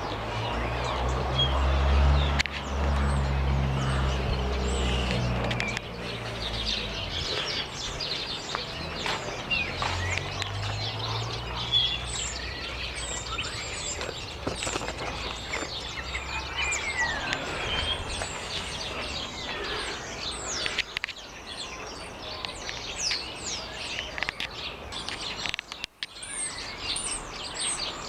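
Several garden birds chirping and calling, many short high notes throughout. A low rumble sits under them for the first several seconds.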